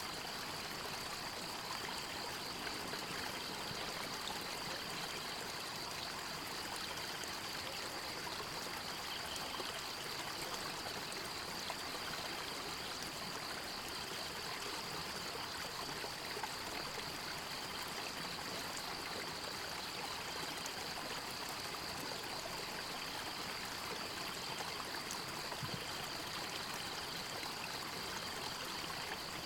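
A stream running steadily, with water trickling. A high, fast-pulsing buzz holds steady over the water sound throughout.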